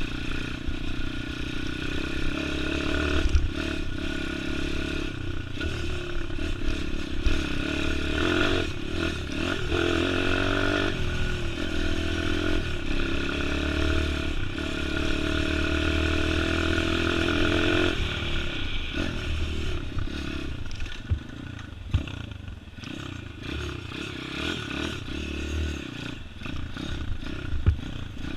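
Single-cylinder four-stroke pit bike engine revving up and down as it is ridden off-road, with some rattling. The engine drops to a lower, quieter running from about 18 to 26 seconds in, then picks up again near the end.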